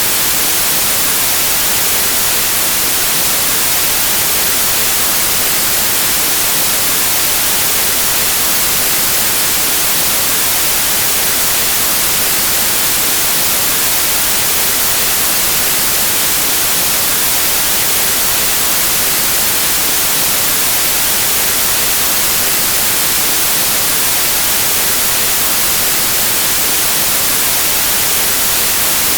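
Synthetic white noise: a steady, even static hiss, strongest in the high frequencies, with no change in level.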